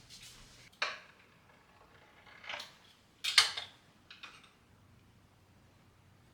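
Small hard objects being handled: a sharp click about a second in, a brief scrape, then a louder clatter in the middle and a lighter one just after.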